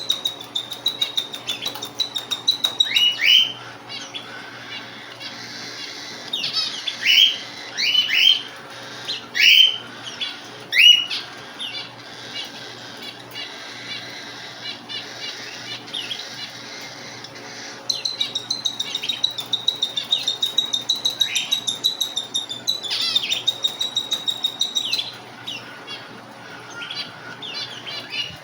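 Young white cockatiels calling: a fast ticking chatter on one high pitch, broken by loud, short, upward-sweeping whistled calls, several in a row.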